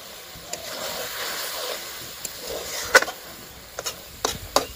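Chicken and brinjal curry sizzling as it fries in a metal kadai, with a metal ladle stirring and knocking against the pan: a loud clink about three seconds in, then three lighter knocks near the end.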